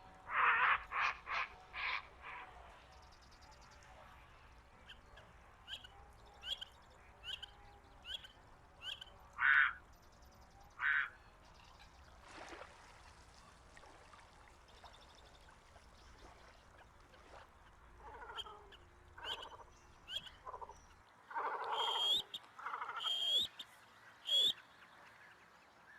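Croaking calls in short series of four or five rough pulses, near the start and again near the end, with a small bird repeating a high chirp note in between.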